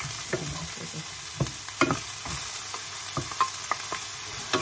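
Carrot strips sizzling in hot oil in a frying pan as they are stirred with a wooden spatula, with a few sharp knocks of the spatula.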